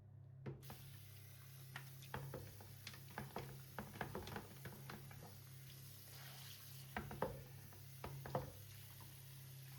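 Food sizzling in a pan with a steady hiss that starts suddenly about half a second in. Over it come many light clinks and taps of a utensil stirring, sharpest around seven and eight seconds in.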